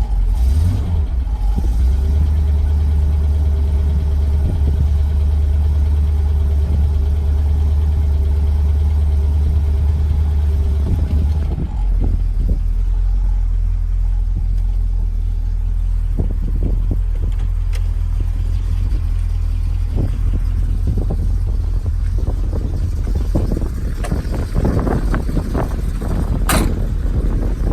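1964 Chevrolet Corvette Stingray's 327 small-block V8 running steadily as it warms up after a cold start. About halfway through, its note drops lower, and it turns rougher and more uneven toward the end.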